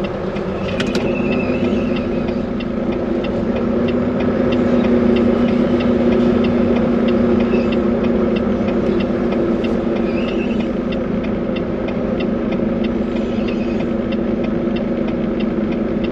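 Volvo VNL 860 semi-truck's diesel engine running at low speed, heard from inside the cab, with a light regular ticking about twice a second.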